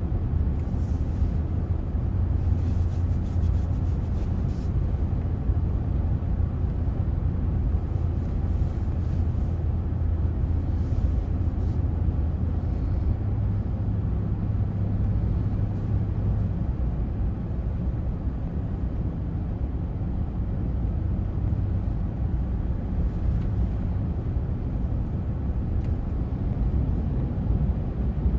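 Car driving along, heard from inside the cabin: a steady low engine and road drone with tyre noise. The low hum rises a little in pitch for a few seconds about halfway through, then settles back.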